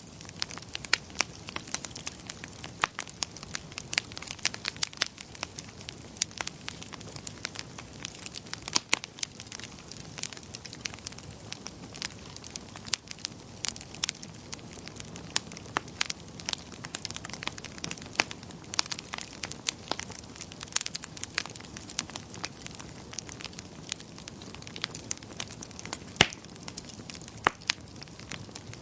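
Wood fire crackling: frequent sharp irregular pops and snaps over a soft steady hiss, with one louder pop near the end.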